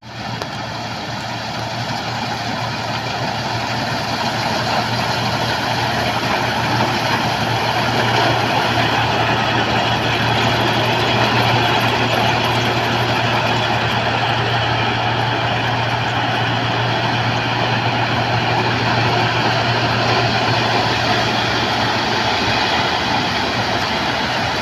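Heavy machine's diesel engine running steadily, with a constant low hum under dense mechanical noise. It builds slightly over the first few seconds, with no hammer blows.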